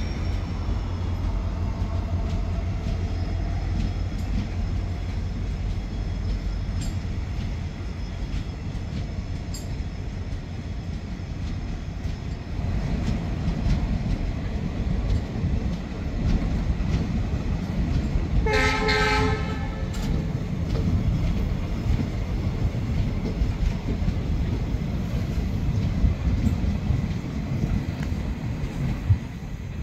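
Indian Railways automobile-carrier wagons rolling past at close range, a steady rumble with wheels clicking over the rail joints and a faint wheel squeal fading in the first few seconds. A train horn sounds once for about a second a little past the middle.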